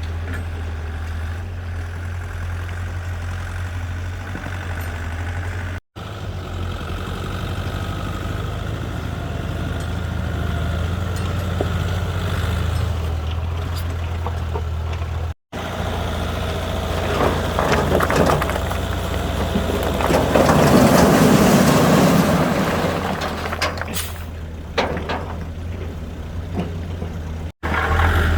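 Excavator diesel engine running steadily, with a louder stretch of scraping and rattling from soil and rock in the second half. The sound drops out briefly three times.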